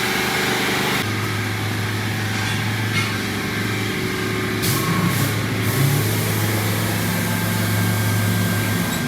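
A small engine running steadily, its low hum stepping up in level about a second in and then holding, with a short hiss about halfway through.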